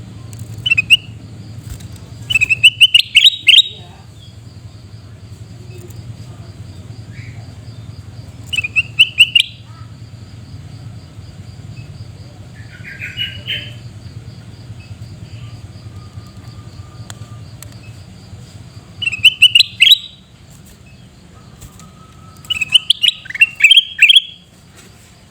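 Kutilang emas bulbul calling loudly in short bursts of quick, harsh chirping notes, a burst every few seconds with longer gaps between some.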